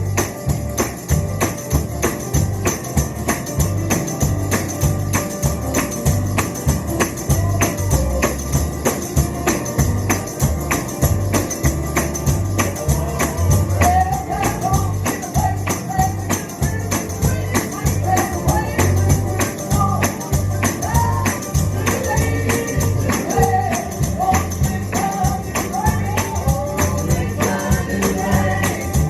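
Live gospel music: a tambourine struck in a steady fast rhythm over a bass-heavy band, with voices singing from about halfway through.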